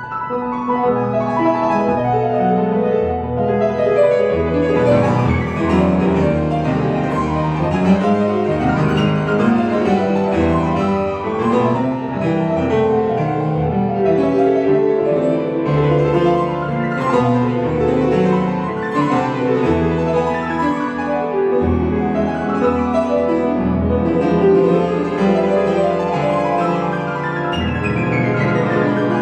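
Solo piano playing a fast, dense classical passage without a break, ending in a quick descending run.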